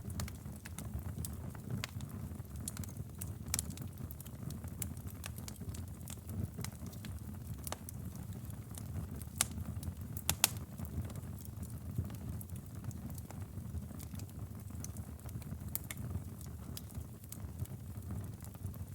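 Wood fire crackling in a fireplace: a steady low rumble with irregular sharp pops and snaps, the loudest about ten seconds in.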